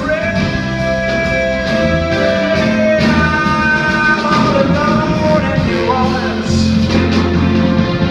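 Blues band playing, with a lead line of long held notes over the full band.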